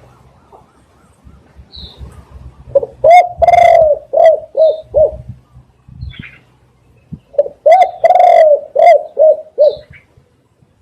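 Spotted dove cooing loudly: two phrases, each a run of short coos around one longer drawn-out coo, a few seconds apart. Faint high chirps of a small bird come in between.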